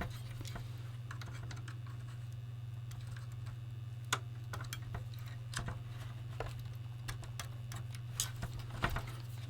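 Sparse light clicks and taps of small plastic parts and a screwdriver being handled, over a steady low hum.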